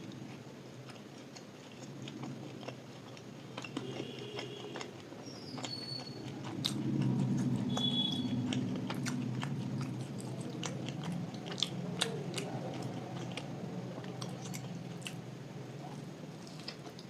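Close-up eating sounds of gulab jamun with luchi being chewed, with many small wet mouth clicks. It gets louder about seven seconds in.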